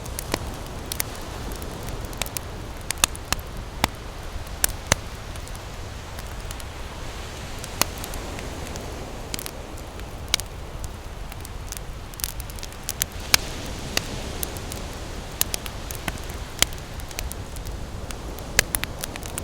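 Campfire wood crackling, with irregular sharp pops and snaps, over the steady low wash of ocean waves.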